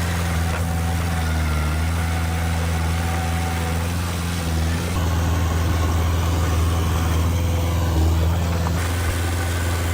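Diesel engine of heavy earthmoving machinery running steadily, getting a little louder about halfway through, then easing back near the end.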